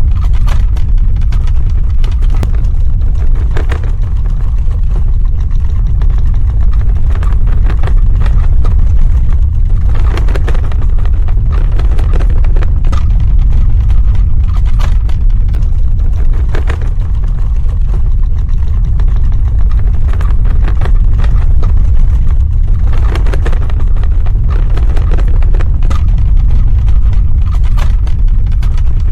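Earthquake rumble sound effect: a loud, continuous deep rumble with scattered crackling and rattling on top.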